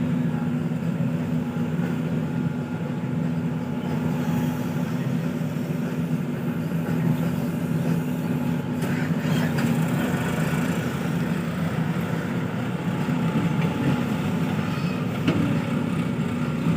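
Heavy diesel engines of a JCB and tractors running steadily under work, a constant low drone throughout.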